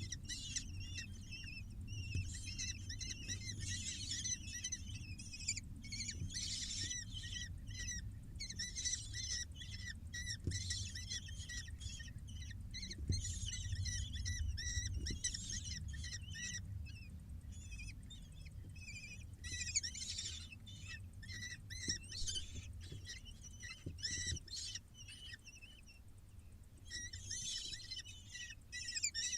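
Falcon nestlings begging while being fed: many rapid, high-pitched chirping calls in overlapping bouts, with short lulls, over a low rumble.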